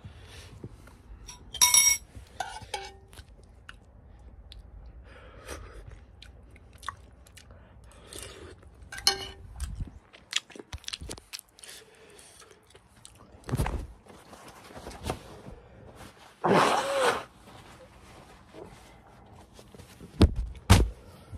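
Close-up chewing and mouth noises of a person eating ramen noodles with rice, with irregular small clicks and a few louder bursts, the loudest about two seconds in and again around seventeen seconds in.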